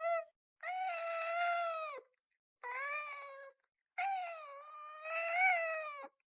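A cat meowing in long, drawn-out yowls: a short call, then three long ones, the last the longest at about two seconds.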